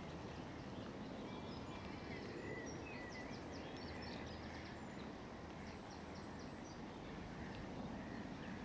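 Quiet outdoor ambience: a steady low background rumble, with faint high bird chirps and twitters through the middle few seconds.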